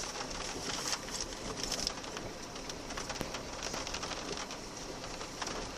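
Steady hiss of flowing river water, with many small ticks and clicks through it.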